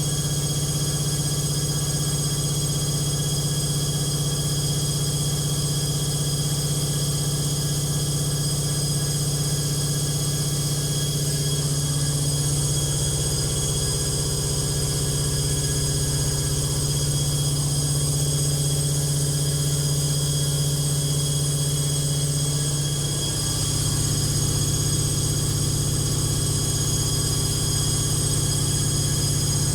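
Logik washing machine spinning with a badly unbalanced load: a steady motor and drum hum that shifts slightly in pitch twice.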